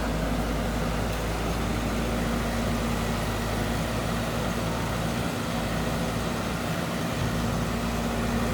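Heavy earthmoving machine's diesel engine running steadily, with an even hum.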